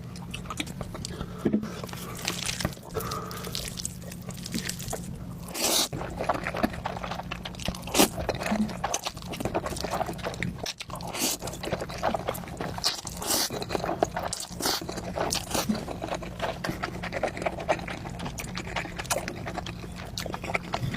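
Close-miked eating of spicy food: chewing with many quick wet mouth clicks and smacks, over a steady low hum.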